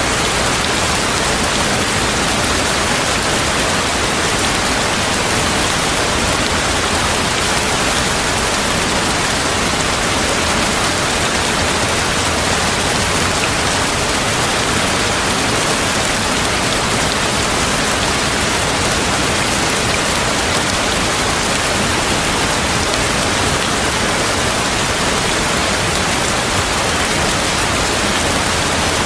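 Heavy rain falling steadily, a dense, even hiss of rain with no single drops or thunderclaps standing out.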